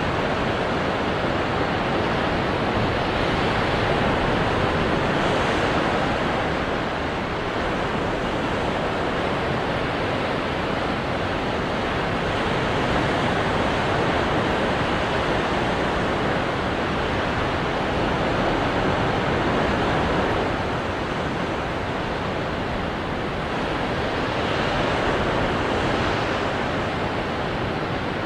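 Ocean waves breaking onto rocks: a continuous rushing surf that swells gently every six or seven seconds.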